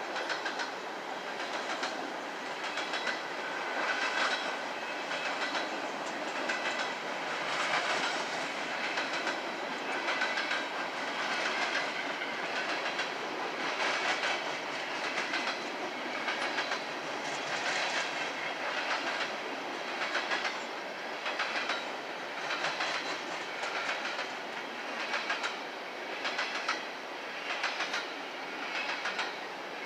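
Empty coal cars of a freight train rolling past, their wheels clicking over the rail joints in a steady, repeating clickety-clack over a continuous rumble.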